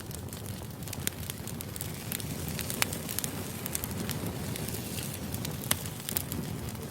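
Firewood burning: a steady low rumble of flames with irregular sharp pops and crackles from the wood. Two louder pops come about three and six seconds in.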